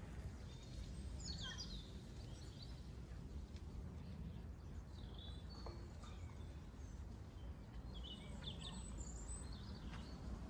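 Birds chirping at a few moments, short high calls, over a low steady outdoor rumble.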